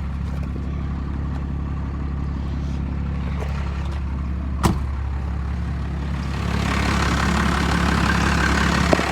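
1993 Cummins 12-valve 5.9 L inline-six turbo diesel idling steadily with a low, even hum. There is one sharp click about halfway through, and a hiss builds up over the second half while the idle stays the same.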